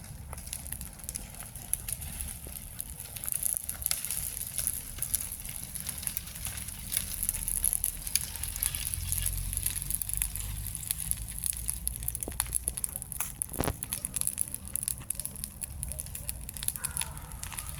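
Large bonfire, about three metres high, burning and crackling, with frequent sharp pops over a steady low rumble.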